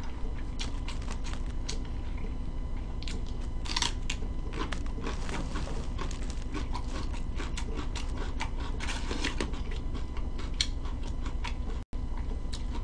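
Raw celery being bitten and chewed with the mouth close to the microphone: many crisp crunches in quick irregular runs.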